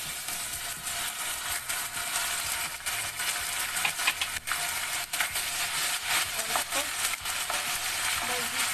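Onions frying in hot oil in a kadhai, the sizzle jumping louder at the start as ginger-garlic paste goes into the oil. From a few seconds in, a wooden spatula stirring the paste scrapes and taps against the pan in short clicks over the steady sizzle.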